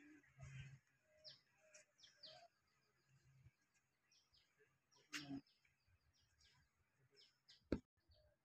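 Near silence, with many faint, short bird chirps among the trees. Two brief soft knocks stand out, one about five seconds in and a louder one near the end.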